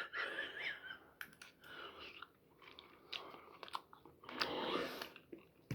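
A person chewing a mouthful of chicken vindaloo and rice, with faint, irregular wet clicks from the mouth.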